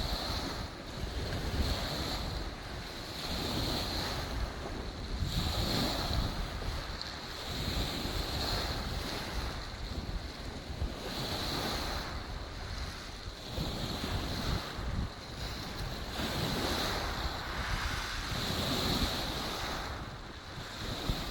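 Lake Superior waves washing over a beach of rounded cobbles and drawing back, the stones clattering and hissing in repeated surges about every two seconds: the 'singing stones'.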